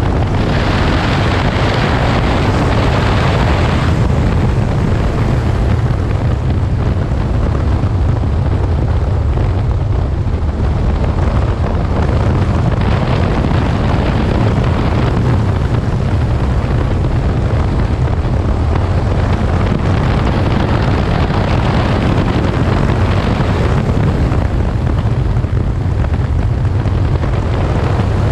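Aprilia Tuono 1000 motorcycle riding at speed, with heavy wind rush over the microphone. The engine is under a steady deep rumble, and the hiss swells several times.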